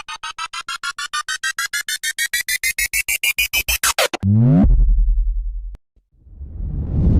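Synthesized cartoon comedy sound effects played back to back: a rapidly pulsing electronic tone, about nine pulses a second, climbing in pitch for about four seconds, then a quick falling glide, a low buzz for about a second, and a rising noisy rumble near the end.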